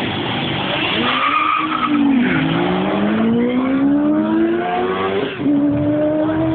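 A turbocharged Audi S4 and a motorcycle accelerating hard from a standing start. An engine note climbs steadily and drops sharply at each gear change, about two seconds in and again about five seconds in.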